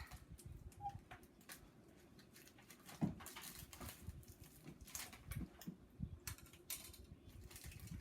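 A plastic snack wrapper being handled and opened: scattered crinkles and crackles, with one sharper knock about three seconds in.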